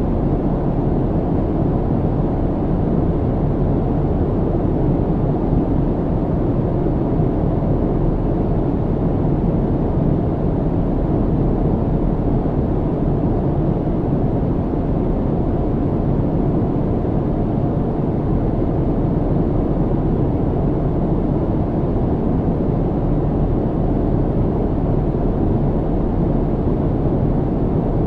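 Airliner cabin noise in flight: a steady low rumble and rush of engine and airflow, unchanging throughout.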